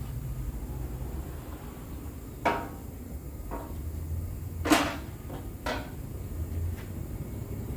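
Four separate metallic knocks and clunks of car body parts or tools being handled, the third the loudest, over a steady low hum.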